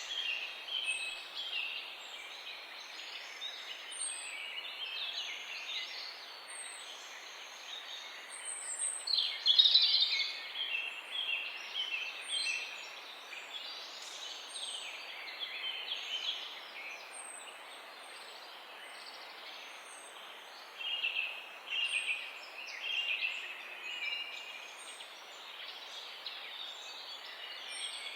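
Several wild birds chirping and singing at once in a morning chorus, with a thin high note repeated every second or two over a steady background hiss. The loudest call comes about a third of the way in.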